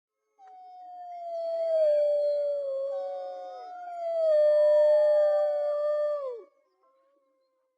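A chorus of wolves howling, several long overlapping howls at different pitches, which swell twice and end together in a falling drop about six and a half seconds in.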